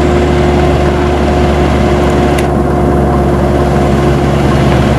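Large vehicle engine running steadily, a loud, even low hum.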